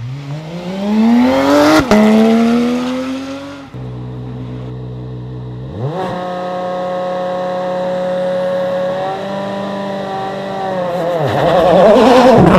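Rally car engines: one accelerates hard, its pitch climbing, with a gear change about two seconds in. After an abrupt cut, an engine holds steady revs for several seconds, with a small step up partway through, before another loud, warbling burst of revs near the end.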